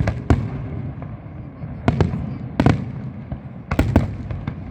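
Fireworks going off: sharp bangs at irregular intervals, about six in a few seconds, two of them in quick succession near the end, over a constant low rumble of further bursts.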